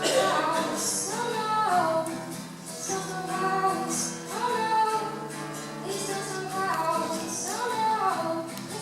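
A song sung by high voices, a melodic line that slides between notes, over a steady instrumental accompaniment.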